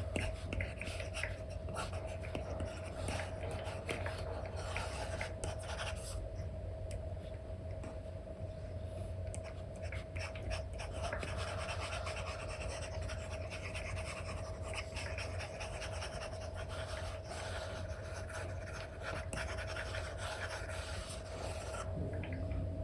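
Stylus nib scratching and tapping on a paper-like matte screen film as an Apple Pencil 2 paints strokes on an iPad, with short bursts of scratching and quick taps over a faint steady hum.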